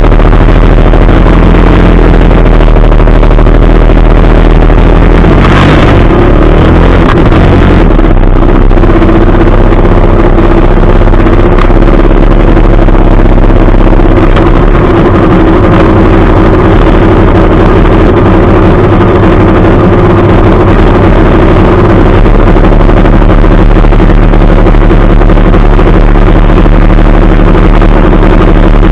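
Several dirt bike engines running close by, the nearest bike loudest, the engine note shifting in pitch now and then as throttles are opened. A brief sharp burst stands out about five and a half seconds in.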